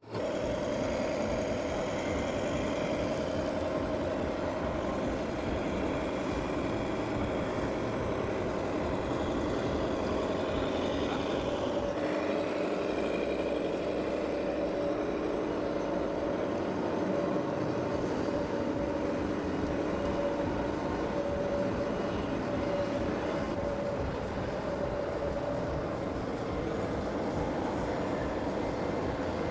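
Small electric motor of a remote-control toy tractor running steadily, a whir with a held whine; a second, lower whine joins about twelve seconds in and fades out about ten seconds later.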